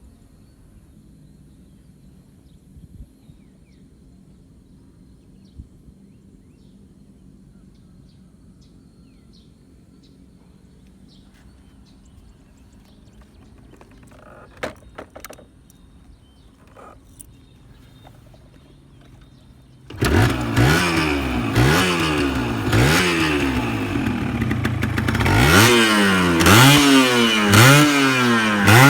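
A few faint clicks over a low hum, then a 120cc motorcycle engine starts suddenly about two-thirds of the way through. It is revved again and again, its pitch climbing and falling with each blip, and the blips come quicker near the end.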